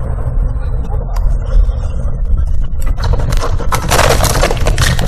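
A car's low road rumble heard from inside the cabin, then about three seconds in a crash: some two seconds of loud crunching and scraping noise.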